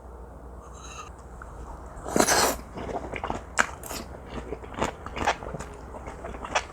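Close-miked eating of a mouthful of teriyaki-marinated pork neck with onion, green onion and chili. After a quiet start there is one loud bite about two seconds in, followed by irregular wet chewing clicks.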